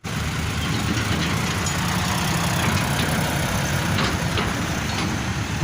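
Engine of a heavy vehicle, a tractor or truck, running steadily with a low rumble.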